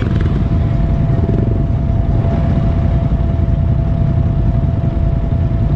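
ATV engine running steadily with a dense, rough low rumble and a thin steady whine over it.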